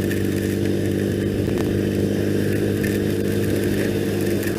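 2001 Triumph Bonneville's parallel-twin engine running at a steady cruise while riding, its pitch holding constant.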